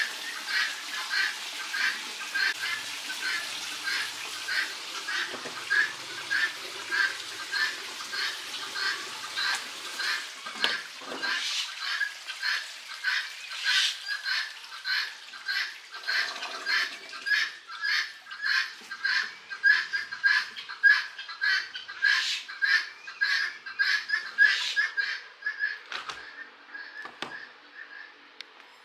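A bird calling the same short, sharp note over and over, about two a second, a little louder in the second half.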